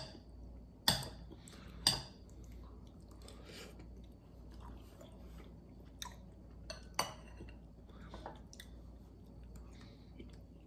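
Quiet chewing and mouth sounds of someone eating a forkful of soft mac and cheese, with a few sharp clicks of a metal fork against a glass bowl, two of them loud in the first two seconds and more about six to nine seconds in.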